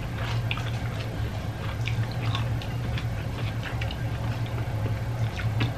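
Close-up chewing: wet mouth sounds and many small, irregular clicks as food is eaten by hand, over a steady low hum.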